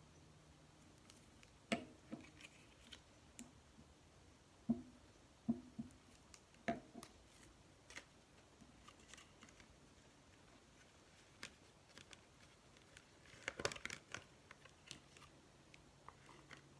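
Scattered light clicks and taps of paper craft pieces being handled and glued, with a brief cluster of crinkly clicks about three-quarters of the way through.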